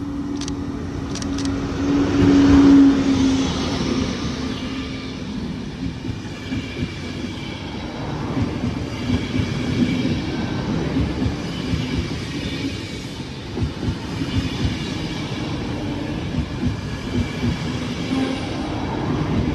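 A train passing close by: a steady low hum that swells loudest about two to three seconds in, followed by rapid, uneven clicking of wheels over the rail joints.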